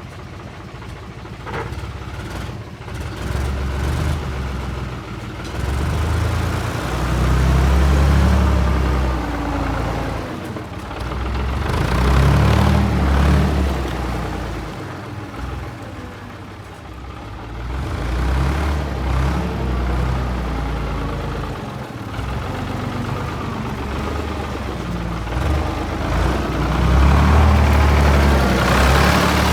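Diesel engine of a HEDEN FC1340 truck running, its revs rising and falling back several times.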